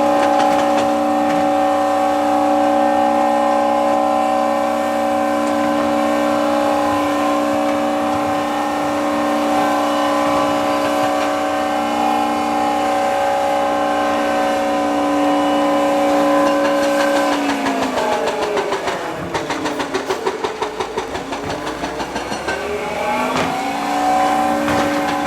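A motor running with a steady whine. Its pitch sinks about three-quarters of the way through and climbs back near the end.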